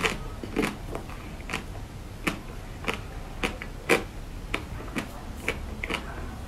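Close-miked chewing with the mouth closed: a crisp click or crunch about twice a second.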